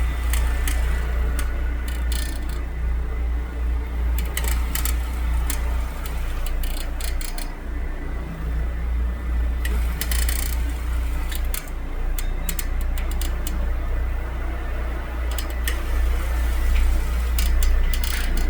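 Carpet cleaning machine running: a steady deep hum with a thin high whine, and irregular sharp clicks and crackles over it.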